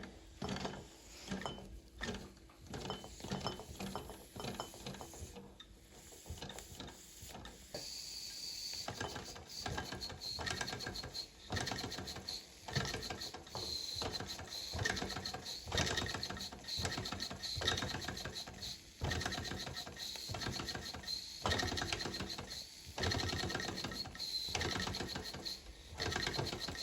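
Mamod TE1A toy steam traction engine running on live steam: its single oscillating cylinder and gearing give a fast, even mechanical clatter that gets louder about eight seconds in.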